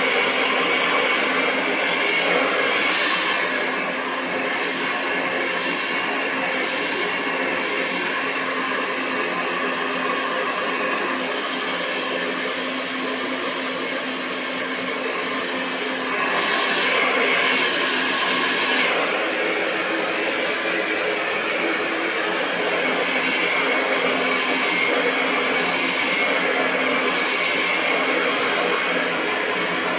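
Hair dryer blowing continuously: a steady rush of air over a motor hum. It drops slightly in loudness about four seconds in and comes back up, brighter, around sixteen seconds.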